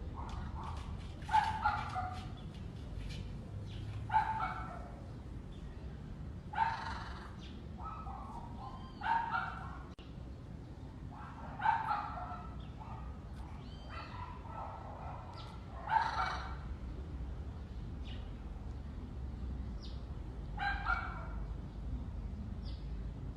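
Short animal calls repeated every two to five seconds, each a brief pitched yelp, over a steady low background rumble.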